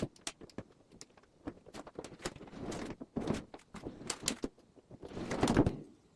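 A run of clicks and knocks with longer scraping, sliding rushes between them, the loudest rush about five seconds in: hard parts being handled and moved.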